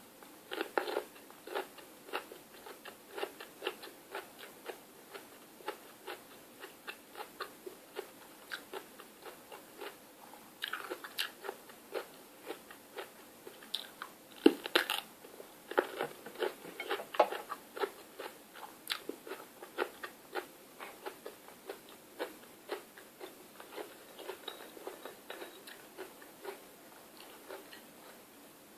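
Close-up chewing and crunching of crisp food, a steady run of small crunchy bites and chews with a few louder bites along the way.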